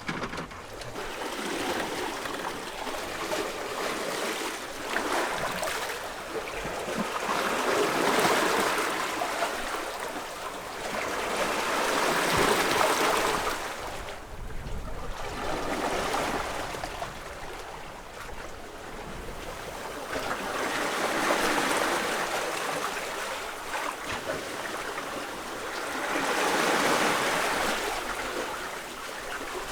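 Sea water washing and rushing, swelling and fading in slow surges every four to six seconds.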